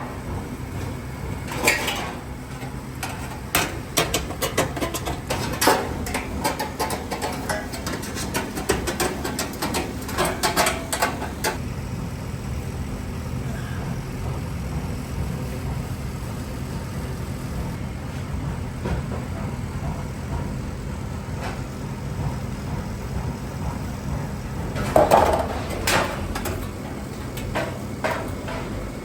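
Workshop clatter: irregular knocks and clicks, thick for the first dozen seconds, then sparse, with a louder burst of knocks near the end, over a steady low machine hum.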